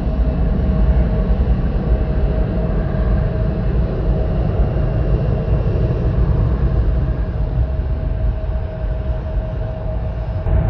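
Jet airliner engines running: a steady deep rumble with a constant whine.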